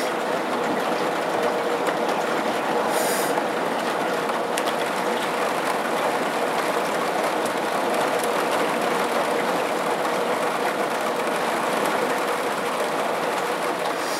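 Heavy thunderstorm rain falling steadily, a dense, even rushing hiss that holds without a break.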